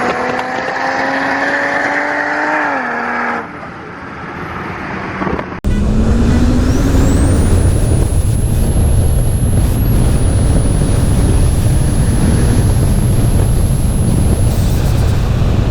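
A car engine accelerating, its pitch rising for a few seconds before it eases off and fades. After a sudden cut about five and a half seconds in, a loud low rumble runs on with a thin high whine that climbs and then holds steady.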